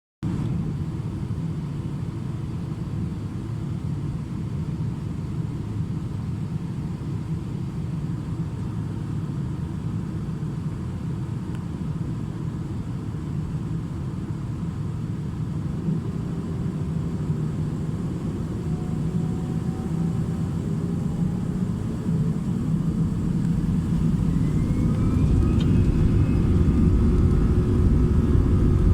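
Airbus A319 passenger cabin: a steady low rumble that grows louder over the last few seconds, with faint rising whines joining about two-thirds of the way through.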